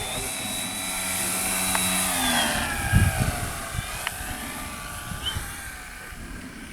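Whine of a radio-controlled model aircraft's motor, holding a steady pitch and then dropping in pitch about two seconds in, then fading away. A low thump comes about three seconds in.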